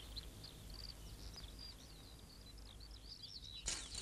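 Small birds chirping faintly in quick short calls over a low steady outdoor rumble; a hiss comes in near the end.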